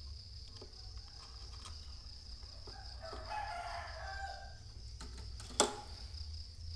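A rooster crowing once, a call of about a second and a half near the middle, followed a second later by a single sharp click. A steady high-pitched whine and a low hum run underneath.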